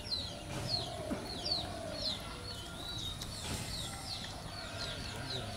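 Birds calling outdoors: a short, high, falling chirp repeated about twice a second over a faint background.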